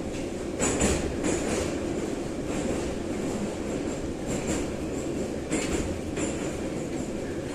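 Metro train of the 81-717/714 type running, heard from inside the car: a steady rumble with clatters of the wheels over rail joints, grouped around a second in and again about two-thirds of the way through, and brief high wheel squeals.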